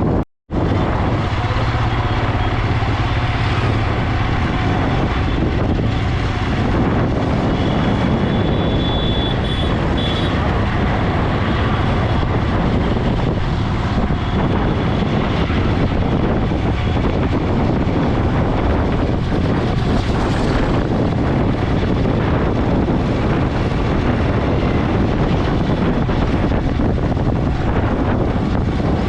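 Motorcycle riding along a road: steady engine and wind rush, with a brief cut in the sound just after the start.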